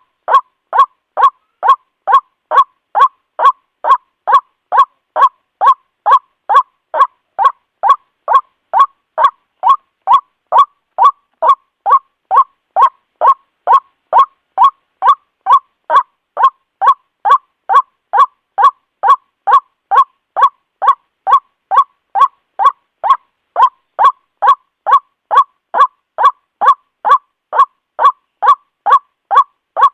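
White-breasted waterhen (ruak-ruak) calling: a steady, unbroken series of short, hoarse 'kwak' notes, about two a second, at an even pace and loudness. It is a lure call used to attract waterhens.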